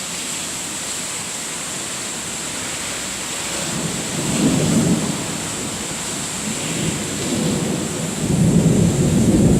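Steady rain hiss with rolling thunder: a low rumble begins about three and a half seconds in, eases off, then swells louder near the end.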